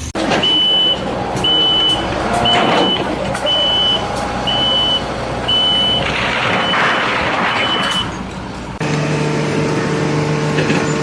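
A vehicle's reversing alarm beeps about once a second, eight beeps in all, over the noise of a truck or heavy machine. Near nine seconds it cuts off suddenly and a steady, droning hum takes over.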